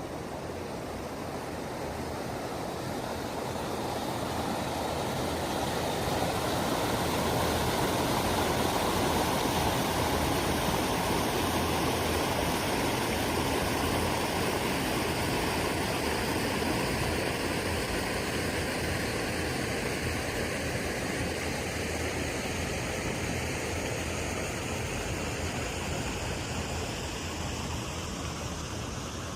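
Steady rushing water noise, typical of rain and running water, swelling over the first several seconds and slowly easing toward the end.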